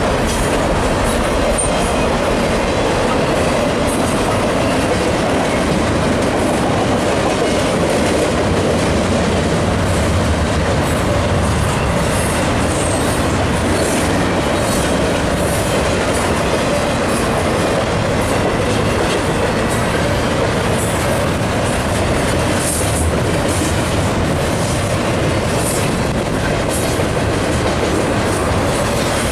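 Double-stack intermodal freight train's well cars rolling past: a steady, loud noise of steel wheels running on the rails, with irregular short clicks.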